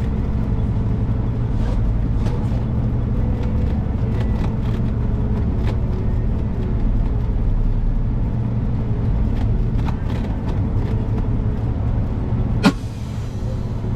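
Semi truck's diesel engine running low and steady as it rolls slowly across the truck stop lot, with scattered light rattles and one sharp snap near the end.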